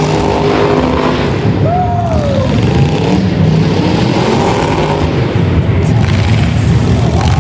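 Loud car engine running steadily, a deep drone that shifts only a little in pitch.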